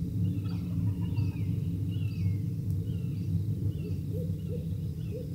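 Distant Osceola wild turkey gobbler gobbling from the roost: a quick run of short notes about four seconds in, with songbirds chirping over a low steady rumble.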